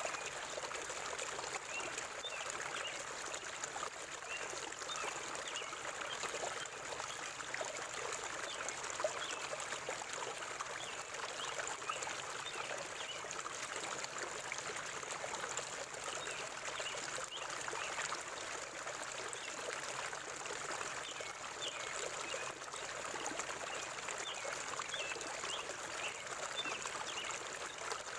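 Forest river flowing and trickling over stones, a steady rush of water with fine gurgles throughout.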